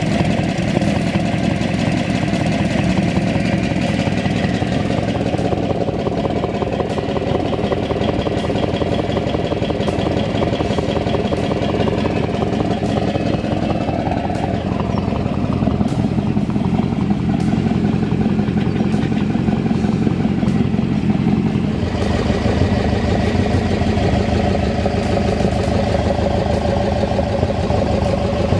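Hot rod and custom car engines idling, one engine's pitch gliding up and down partway through. The sound changes abruptly about 22 seconds in, as a different engine takes over.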